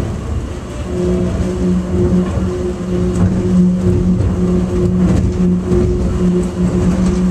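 Airport subway train running along its track: a steady rumble with a steady electric hum that sets in about a second in.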